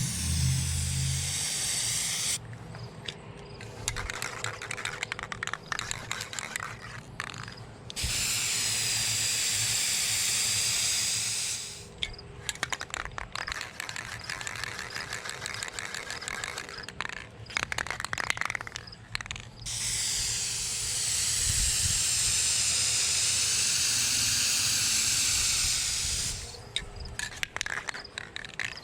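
Aerosol spray-paint can spraying in three long, steady hisses: a short one at the start, one of about four seconds, and one of about six seconds in the second half. Quieter, irregular crackling fills the gaps between them.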